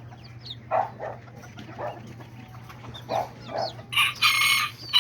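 Chickens clucking in short calls, then a rooster crowing about four seconds in, the loudest sound. A steady low hum runs underneath.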